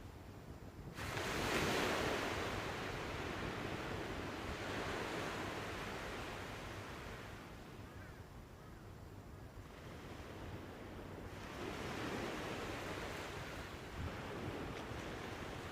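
Sea waves breaking and washing on the shore, coming in swells: a strong surge about a second in that slowly fades, and another rising a little before the end.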